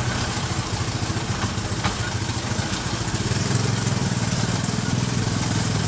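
Vehicle engine running steadily, heard from inside the cabin, with a low hum that grows a little stronger about halfway through.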